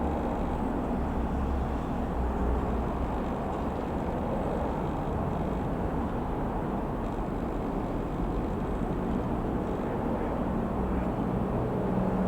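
Light aircraft piston engine droning in the distance over a steady low outdoor rumble. Its hum strengthens slightly near the end.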